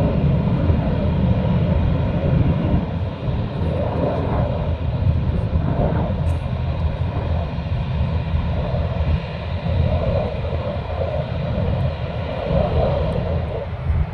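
Jet aircraft engines running: a steady, loud low rumble with a faint high whine over it.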